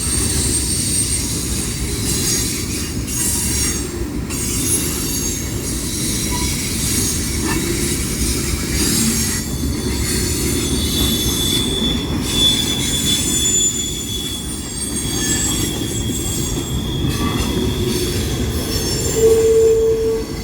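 A train passing close by: a steady low rumble of wheels on the rails, with high-pitched squeals from the steel wheels that come and go. About halfway through a thin high squeal sets in and holds.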